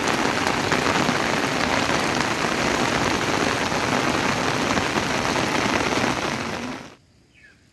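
Heavy rain falling steadily, a dense even hiss that cuts off suddenly near the end, leaving a quiet background with a couple of faint chirps.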